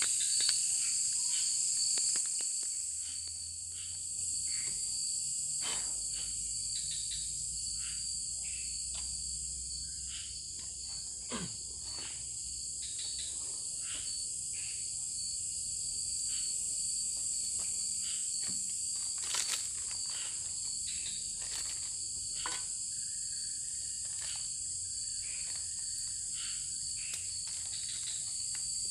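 A chorus of crickets or similar insects keeps up a steady, high-pitched trilling throughout, with scattered faint clicks and ticks over it.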